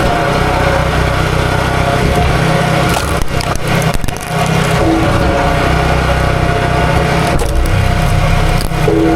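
A small engine running steadily under load while wood cracks and splinters, as when logs are being split, with a few sharper cracks along the way.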